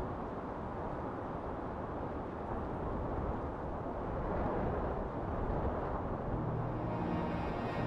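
Steady outdoor background noise, an even low rumble and hiss with no distinct events, with music fading in softly near the end.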